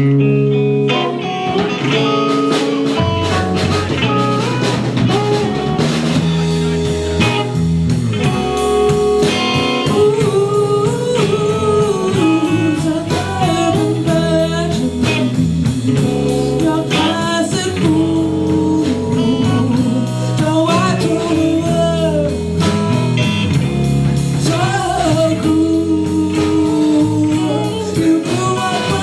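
Live rock band playing with electric guitar, bass and drums and a singing voice; the bass and drums come in about three seconds in.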